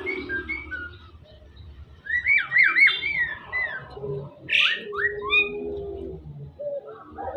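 Javan myna singing a varied string of whistled notes and glides. The loudest part is a quick run of looping whistles about two seconds in, and a short harsh rasp comes near the middle.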